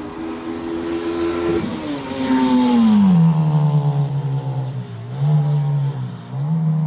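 Modified car's engine pulling hard at high revs as it speeds past: the engine note is loudest about three seconds in and falls in pitch as the car goes by, then holds steady with two brief dips.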